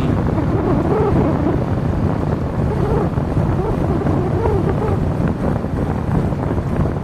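Wind buffeting the microphone over a steady, low road-traffic and engine rumble.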